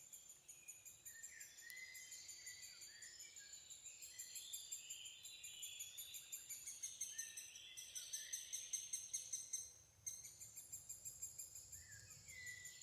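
Birds singing and calling in short swooping phrases over a fast, even, high-pitched chirring, with a brief drop in sound about ten seconds in.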